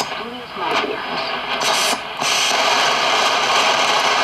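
Shortwave radio receiver's speaker giving out band static: a dense, steady hiss with a weak station warbling faintly under it in the first second. The noise changes suddenly about two seconds in as the radio is tuned, then holds strong and even.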